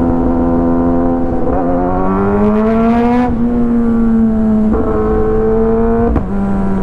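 Kawasaki ZX10R inline-four motorcycle engine with an Arrow full exhaust system running under way, its pitch climbing for about two seconds as it revs, then dropping abruptly before settling steady again.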